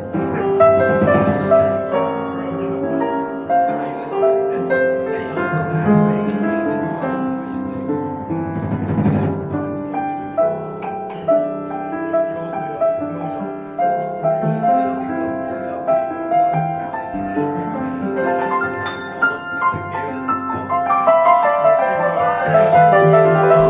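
Live jazz piano playing chords and melody, with light high ticks above the notes throughout.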